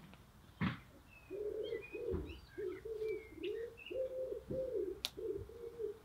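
Bird cooing: a steady run of low, arched notes, about two or three a second, starting about a second in. Small birds chirp faintly higher up, and there is a sharp click near the end.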